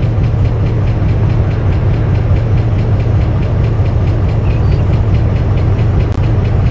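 Car engine idling, a steady low drone heard from inside the cabin.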